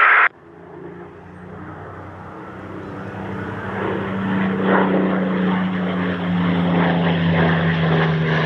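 Spitfires' V12 piston aero engines running in flight, a propeller drone that grows steadily louder as the aircraft approach, its pitch sagging slightly. A radio voice cuts off abruptly just after the start.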